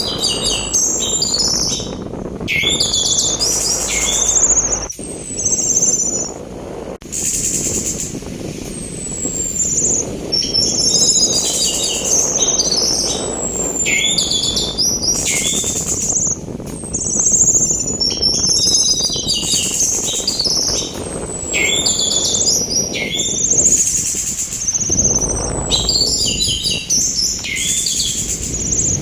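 Orange-headed thrush singing: repeated phrases of high chirps, rapid rattling notes and downward-sliding whistles, coming every couple of seconds over a steady rushing sea-wind noise.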